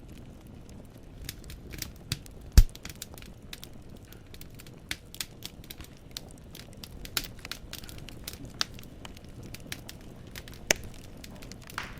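Wood fire burning in a fireplace: logs crackling with irregular sharp pops over a low steady rumble of the flames. One loud pop comes about two and a half seconds in, and another near the end.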